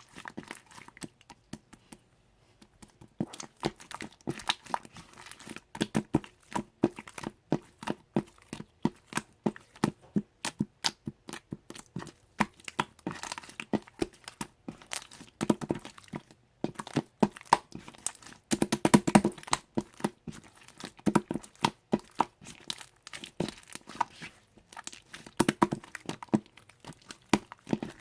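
Slime being squeezed and stretched by hand, making a dense, irregular run of crackling pops and clicks, with a brief pause about two seconds in.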